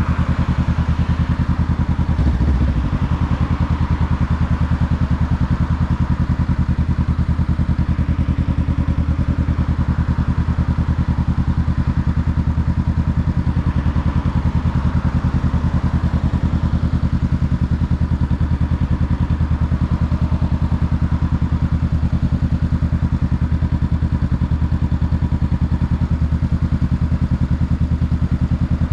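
2021 Honda Rebel 500's 471 cc parallel-twin engine running steadily at one engine speed, with an even, pulsing exhaust note. A brief low thump about two seconds in.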